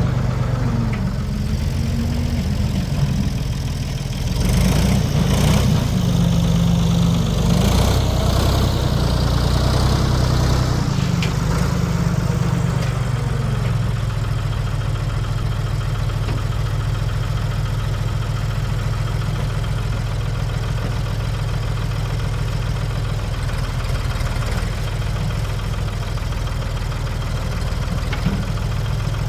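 1973 Ford 4500 industrial backhoe's diesel engine working under load, its revs rising and falling as the backhoe digs, then settling to a steady idle about thirteen seconds in.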